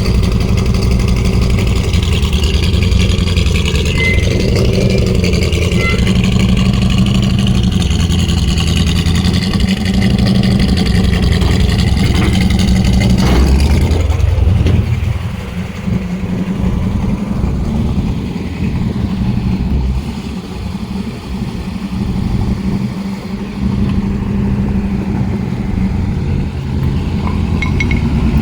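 Flathead Ford engine in a bare-bones rat rod running as the car is driven. It is loud for the first half and eases off somewhat about halfway through. The owner says the engine runs a little rough.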